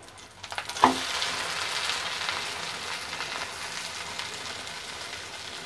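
Cabbage-and-egg omelette sizzling in hot oil in a frying pan just after being flipped, the uncooked side now on the oil. A few light knocks come about half a second in; the sizzle starts up strongly just under a second in and then slowly eases off.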